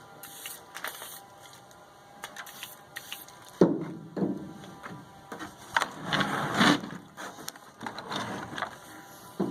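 Irregular clunks, knocks and scraping from parts being handled, with a sharp knock a few seconds in and a stretch of rustling and scraping around the middle, over faint background music.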